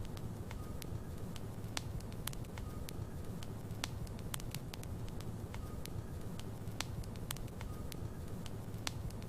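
Logs burning in a fireplace: a steady low rumble of flames with sharp, irregular crackles and pops from the wood.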